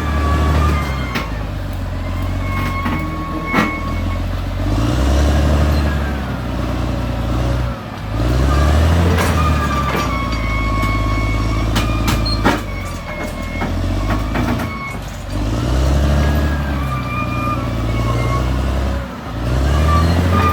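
Caterpillar D6R XL bulldozer working: its diesel engine repeatedly labours and picks up again as the load comes on and off, with a high-pitched whine that rises and falls along with it. A few sharp metallic clanks sound through it.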